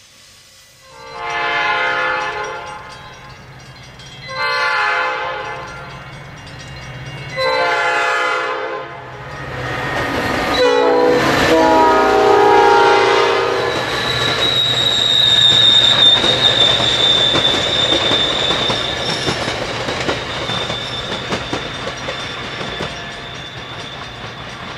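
Train horn sounding three long blasts, a short one and a final long one, then a bilevel passenger train running past with wheels clacking over rail joints and a high steady wheel squeal.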